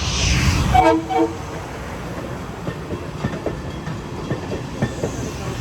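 Long Island Rail Road M3 electric multiple-unit train pulling out, its wheels clicking over the rail joints as the cars go by. A brief chord-like horn note sounds about a second in.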